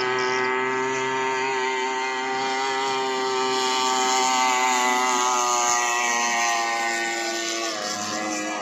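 A 40 hp outboard motor running steadily at speed, its pitch dipping near the end as the throttle eases.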